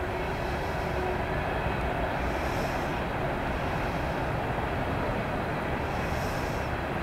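CSX mixed freight train rolling past: a steady rumble of the moving cars, with a faint high hiss that swells twice.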